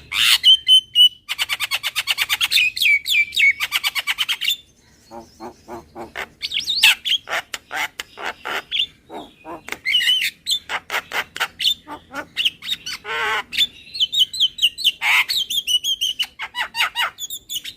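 Javan myna calling: fast chattering runs of clipped notes mixed with high whistles and harsh squawks, in bursts broken by short pauses.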